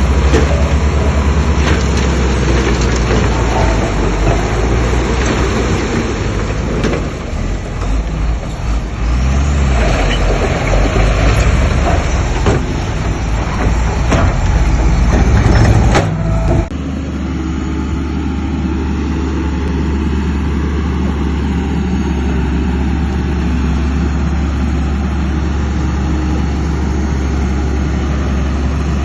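Heavy diesel construction machinery working, engines running loud under load with scattered clanks and knocks. About halfway through the sound cuts abruptly to a steadier low engine drone.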